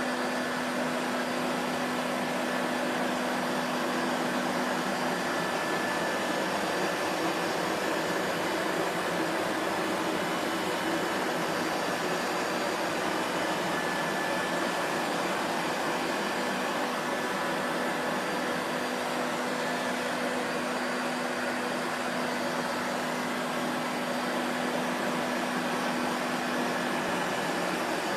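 Vacuum cleaner motor running steadily, a constant rushing hum with a low steady tone under it.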